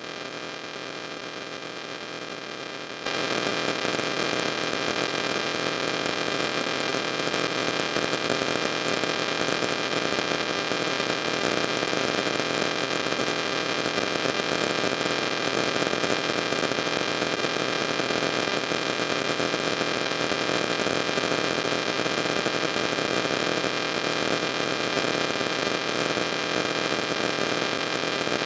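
Steady electrical hiss and hum in the recording chain, with no other sound; it steps up sharply in level about three seconds in and then holds steady.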